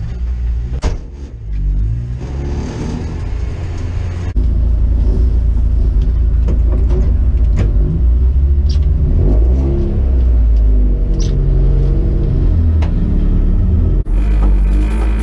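Mazda Miata's four-cylinder engine heard from inside the stripped cabin, running at low speed with the revs rising and falling, with a few short clicks.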